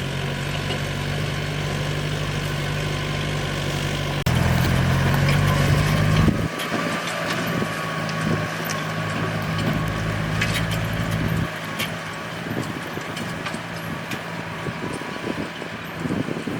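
Yanmar tractor's diesel engine running steadily while plowing. It grows louder about four seconds in, then eases off about two seconds later, with a faint whine in the middle of the stretch.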